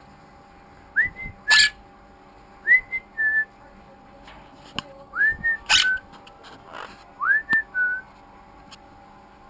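A clear whistled phrase repeated four times at a few seconds' spacing, each a quick upward swoop followed by a slightly lower held note. Two loud sharp clicks of handling noise on the microphone fall among the whistles.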